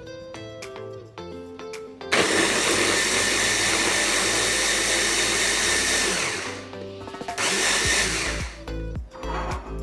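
Electric ice-crushing blender running, blending a milkshake with ice cubes. It starts about two seconds in, runs for about four seconds, stops briefly, then runs for about another second.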